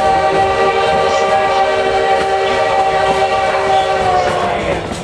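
Steam whistle of Baldwin 2-8-2 locomotive #152 blowing one long, steady blast of several tones together, heard from a coach behind the engine; it fades out near the end.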